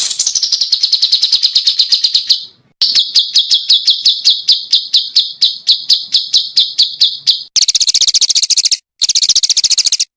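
A small songbird singing a rapid 'tembakan' trill: fast runs of sharp, high repeated notes, several a second, in three bursts with brief breaks between them. The last burst is faster and harsher than the first two.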